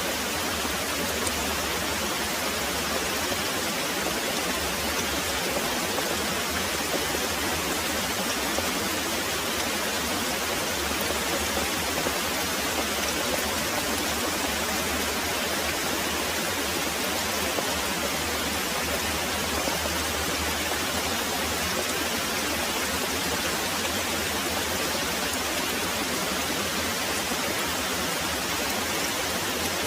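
Very heavy rain pouring steadily, a dense, even hiss with no breaks.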